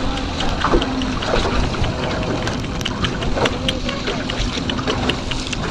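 Small boat under way on open water: steady rush of water along the hull with wind buffeting the microphone, and many small sharp splashes and ticks.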